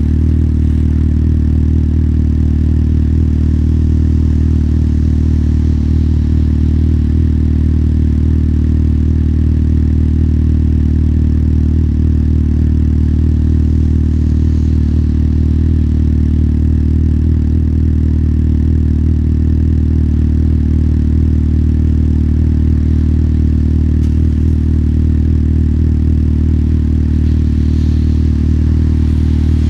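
Motorcycle engine running steadily at one unchanging low pitch, with no revving.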